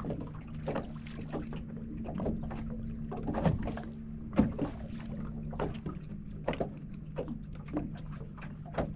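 Small fishing boat rocking on wind-driven chop, water slapping and knocking against the hull in short irregular hits, over a steady low hum.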